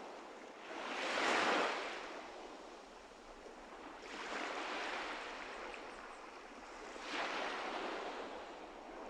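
A rushing noise like surf, swelling and fading three times about three seconds apart.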